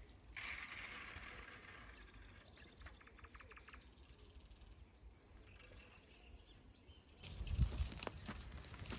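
Outdoor woodland ambience picked up by a trail camera's microphone: a steady hiss with a faint bird, including a quick series of chirps about three seconds in. About seven seconds in it turns to louder thuds and rustling close to the microphone.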